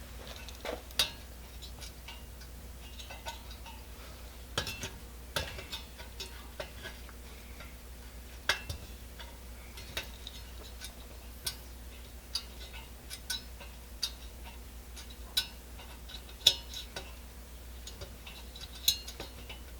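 Irregular light metallic clicks and taps from a Coleman 502 pocket stove being handled, over a faint steady low hum.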